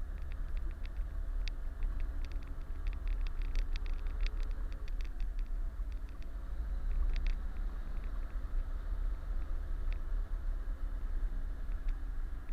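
Kenworth truck's diesel engine running at low revs with a steady low rumble, with a scatter of short clicks and ticks over it, thickest in the first few seconds and again about seven seconds in.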